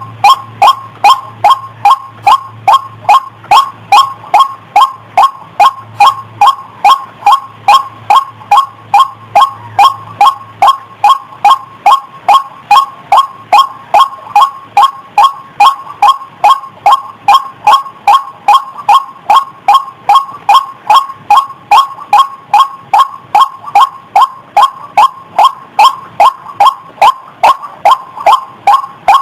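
White-breasted waterhen's lure call, a short loud 'ruak' note repeated evenly about twice a second as a continuous looped recording.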